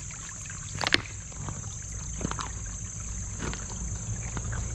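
A geode struck hard to break it open: one sharp crack about a second in, then a few fainter knocks of rock on rock.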